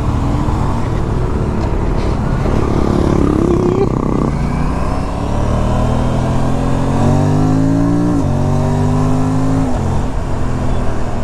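Motorcycle engine accelerating through the gears over a steady rush of wind: the engine note climbs, drops at an upshift about eight seconds in, climbs again and drops at a second shift near the end.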